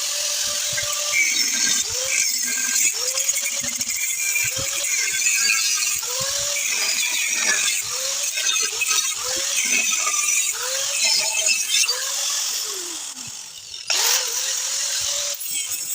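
Angle grinder with a cut-off disc cutting through the steel pipe end of a catalytic converter: a loud hissing grind, the motor's whine dipping each time the disc bites and picking back up over and over. It eases off briefly near the end, then cuts again.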